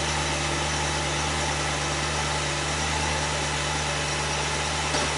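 A 2006 BMW 750i's 4.8-litre V8 idling steadily, heard close to the tailpipe while the exhaust is putting out white smoke.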